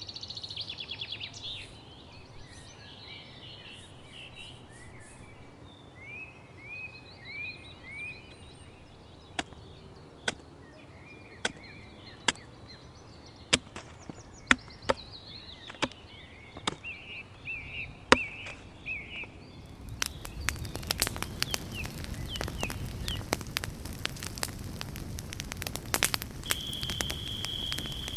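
Small birds chirping and trilling, with occasional sharp snaps. About twenty seconds in, a campfire begins crackling densely over a low rumble, and near the end a steady high whistle joins it.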